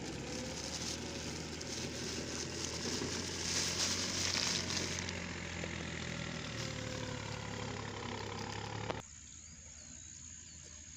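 A motor engine runs steadily with a low hum, which the man calls car sound. It cuts off abruptly about nine seconds in, leaving a quieter background with a few faint bird chirps.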